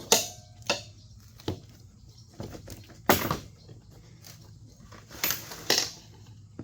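Metal tire spoon clinking and scraping against a dirt-bike wheel rim as it levers the tyre bead off, in about six sharp clinks, the loudest about three seconds in.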